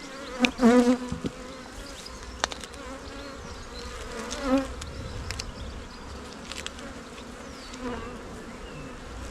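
Honeybees buzzing steadily around an open hive. The buzz swells loudly with a wavering pitch about half a second in, and again around four and a half seconds in. There is a single sharp click about two and a half seconds in.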